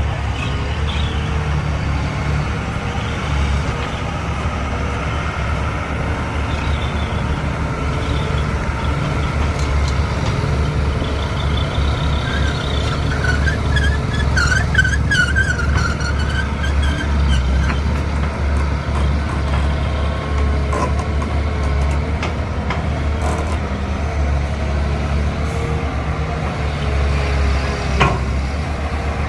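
Heavy diesel earthmoving machinery running steadily, with a wavering high-pitched squeal about halfway through and a single sharp click near the end.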